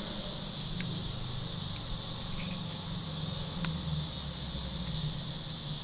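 Steady high insect chirring, with a low hum underneath and a few faint clicks.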